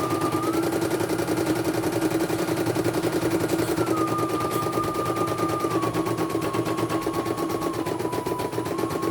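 Computerized embroidery machine stitching: a fast, even rattle of needle strokes over a steady motor hum, with a whine that steps up in pitch about half a second in, drops near four seconds and again near six, then dips and climbs back near the end.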